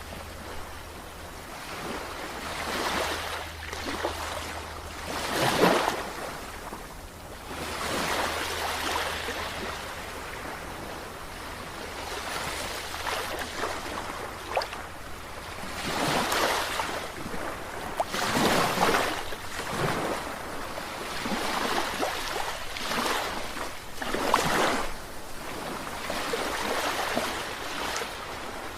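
Sea waves washing in, in repeated swelling rushes of surf every second or few, over a steady wash of water.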